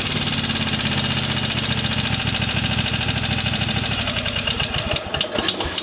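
Kohler 22 hp twin-cylinder engine running steadily, then shut off: from about four seconds in its firing slows and the pulses spread apart as it runs down to a stop near the end.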